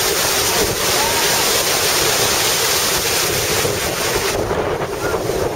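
Wind buffeting the microphone over the steady rush of water from a moving boat, loud throughout, with the hiss easing briefly near the end.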